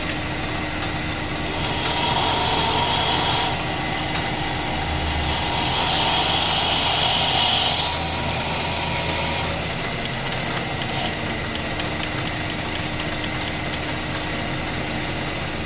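A small motor, like a power tool's, running steadily with a constant hum. It grows louder with a higher hiss for two stretches, a short one about two seconds in and a longer one from about five to nine seconds. Faint, evenly spaced ticks follow near the end.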